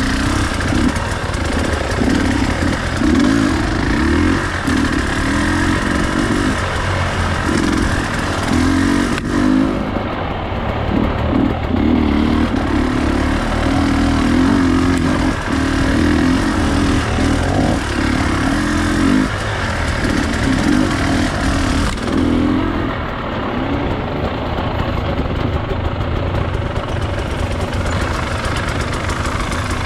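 Enduro dirt bike engine running off-road, its revs rising and falling with repeated short blips of the throttle.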